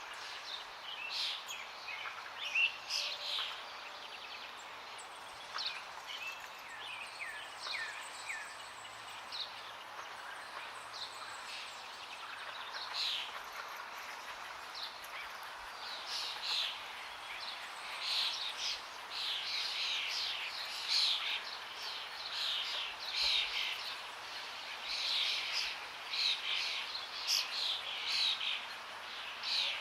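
Forest birds chirping and singing over the steady rush of running water. The bird calls thicken into near-continuous twittering from about halfway through.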